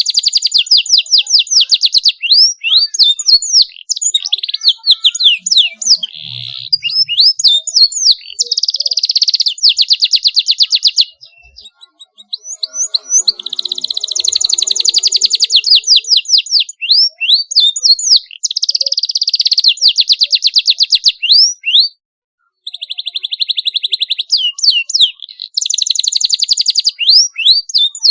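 Domestic canary singing continuously: long, fast rolling trills alternating with quick, high swept whistles, with brief pauses about a third and three quarters of the way through.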